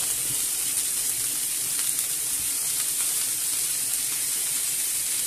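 Chicken pieces sizzling steadily as they fry in hot olive oil in a non-stick frying pan.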